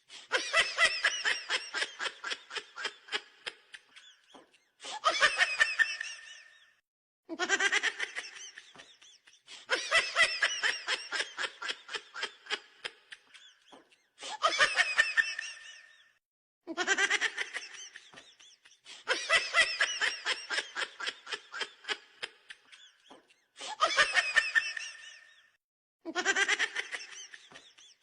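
High-pitched cackling laughter in repeated bursts of rapid "ha" pulses with short breaks between them. The same sequence comes round again about every nine and a half seconds, as if looped.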